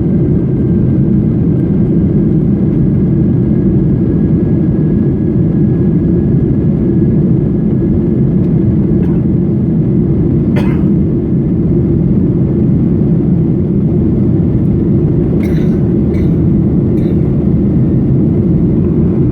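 Steady in-cabin roar of a Boeing 737-800 climbing after takeoff: its CFM56 jet engines and the airflow over the fuselage, deep and even, with a faint steady whine above it. A few faint clicks come about halfway through and again near the end.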